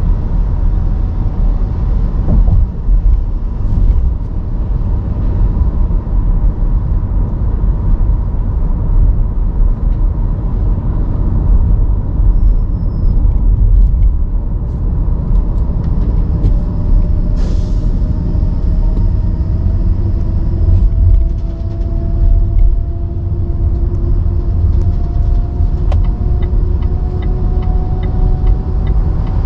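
Car driving on a city road: a steady low rumble of road and drivetrain noise, with a faint whine that rises slowly in pitch through the second half.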